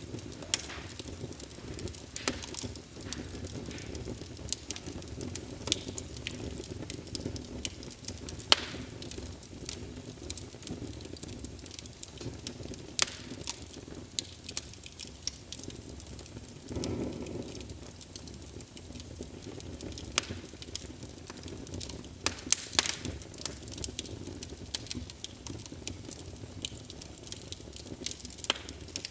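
Wood fire burning in a fireplace: a steady low flame noise with frequent sharp crackles and pops, and a brief swell in the flame noise a little past halfway.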